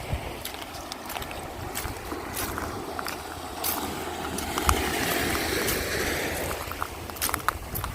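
Surf washing on the beach with wind on the microphone; the wash swells about halfway through. Scattered sharp clicks run through it.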